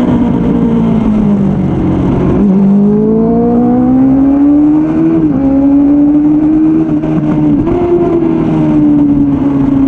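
Suzuki Bandit 600 inline-four motorcycle engine under hard riding on track. The pitch falls for the first two seconds or so, then climbs steadily as the bike accelerates out of a corner, dips briefly about five seconds in at a gear change, steps up again near eight seconds in, and then slowly falls off.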